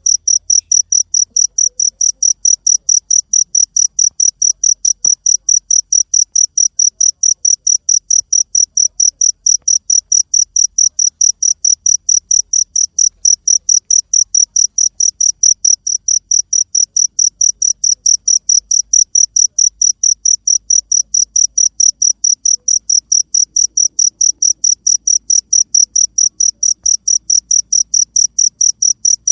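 A cricket chirping continuously in a fast, perfectly even rhythm of short, high-pitched pulses.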